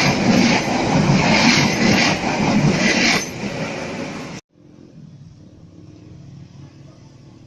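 Passing passenger train, its wheels clattering in a loose rhythm over the rail joints, easing off a little before the sound cuts off abruptly about four seconds in, leaving a much quieter steady background.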